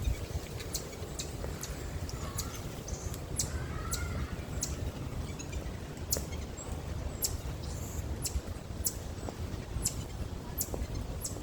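Marmosets calling: repeated short, sharp, very high-pitched chirps, irregular at roughly one or two a second, with a couple of softer gliding calls a few seconds in, over a low wind-like rumble.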